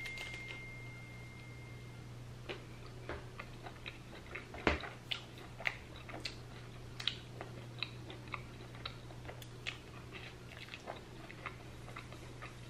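A person chewing a bite of cracker topped with vegan tuna, heard close: faint, irregular crunches and wet mouth clicks, with one louder crunch about five seconds in.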